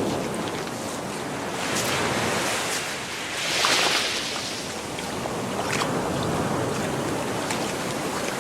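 Gentle Gulf of Mexico surf breaking and washing up the beach in swells, the loudest about three and a half seconds in.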